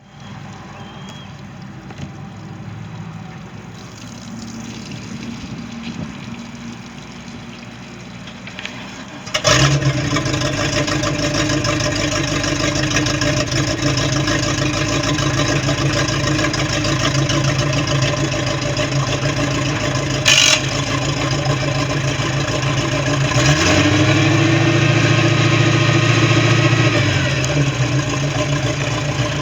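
Baja 188 Islander's sterndrive boat engine catching about nine seconds in and settling into a steady idle. About fourteen seconds later it is revved up, held briefly, and drops back to idle. There is a single sharp click in between.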